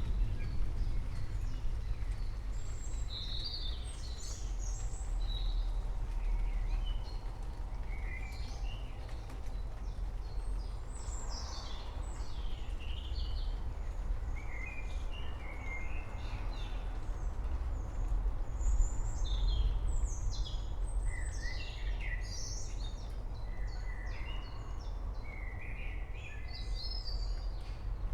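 Songbirds chirping and calling many times over, with short, often falling notes, above a steady low rumble of storm ambience.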